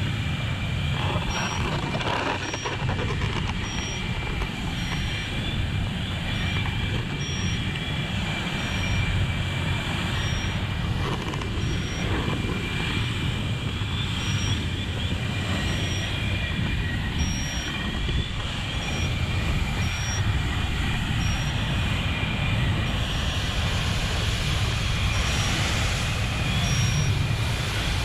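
Heavy vehicle engine running steadily, with a short high beep repeating evenly about every second and a quarter, like a vehicle's warning alarm, and a steady whine above the engine noise.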